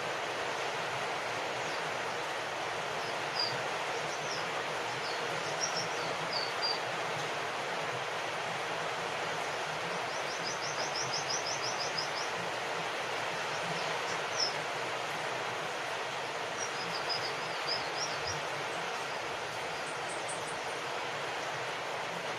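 Steady rain falling, with small birds chirping over it: scattered short chirps, a quick trill of about ten notes near the middle, and a few more chirps later.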